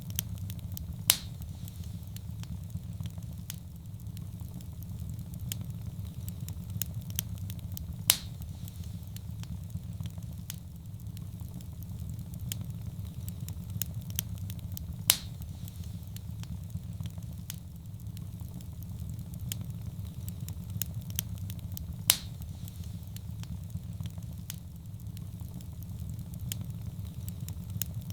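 Wood fire burning in a fireplace: a steady low rumble of flames with frequent small crackles, and a sharp loud pop about every seven seconds.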